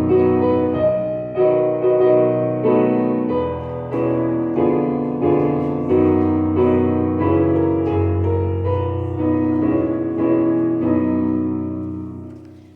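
Piano playing slow chordal music, a new chord struck about every half second to second, dying away at the end.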